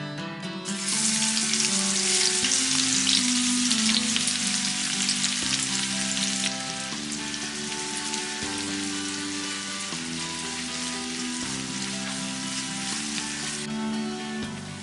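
Food frying in hot fat in a pan. The sizzle starts suddenly about a second in and is loud for several seconds, then eases to a lower steady sizzle and drops again near the end. Background music plays underneath.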